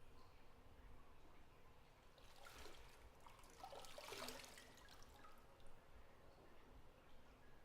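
Bathwater moving in a bathtub: a couple of seconds of trickling and splashing about two seconds in, with near silence around it.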